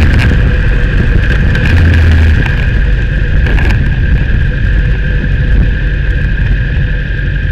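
Kawasaki Ninja sport motorcycle's engine running at low speed as the bike rolls slowly, heard from a camera on its fairing. The low engine rumble swells briefly about two seconds in, then eases off.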